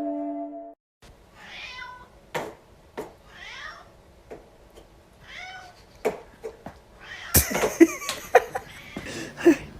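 A cat meowing: three short calls about two seconds apart, with a few sharp knocks between them. A louder knock comes about seven seconds in, followed by more calls.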